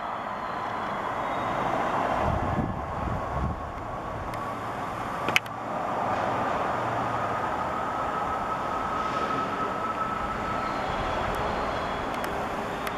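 N700S shinkansen train running along the elevated track some distance off: a steady rush of running noise with a faint high whine through the middle. A single sharp click about five seconds in.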